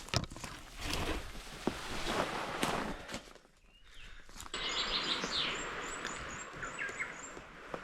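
Footsteps on a forest track for the first few seconds, then after a short lull birds singing in the bush: a quick run of short, high repeated notes over a steady hiss.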